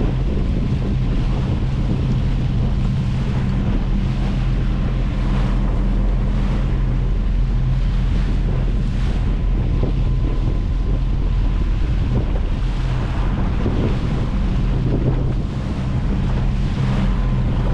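Small fishing boat's engine running steadily under way, with wind buffeting the microphone and water rushing past the hull.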